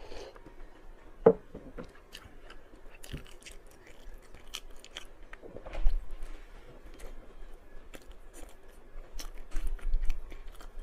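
Close-miked eating: a person biting and chewing food with crisp, crackly crunches and scattered small clicks. A few sharper, louder bites come about a second in, near the middle and near the end.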